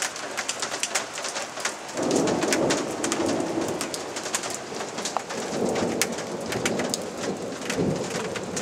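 Hailstones pelting down in a heavy hailstorm, a dense patter of sharp clicking impacts over a steady hiss. About two seconds in, a deeper rumble joins and carries on.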